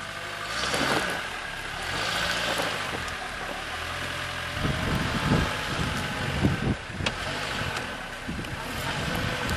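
Suzuki Jimny's engine running at low speed as it crawls across a steep side slope, with gusts of wind noise on the microphone in the middle.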